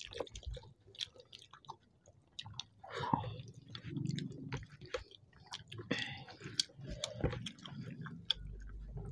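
Close-up chewing of soft khichuri (rice and lentils), eaten by hand, with many small wet clicks and lip smacks.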